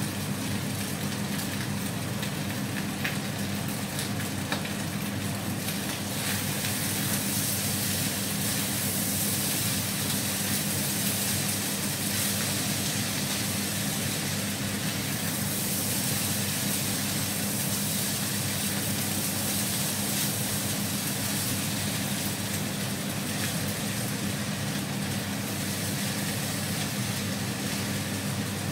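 Fried rice sizzling in a pan on an induction cooker, a steady hiss over the cooker's constant low hum, while a spatula stirs it.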